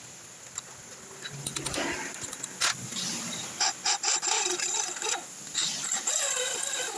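Hand tools scraping and clicking on metal, with a few sharp knocks, during work on a snapped motorcycle exhaust bolt; the scraping gets busier about halfway through.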